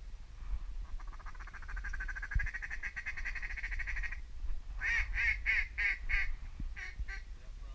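Mallard-type hen quacking: a long, fast chatter, then a falling series of five quacks and two short quacks near the end. A low rumble of wind runs underneath.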